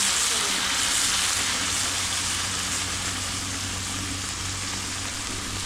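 Chicken and masala frying in a pan, a steady sizzle, with the low steady hum of a lawn mower engine running underneath.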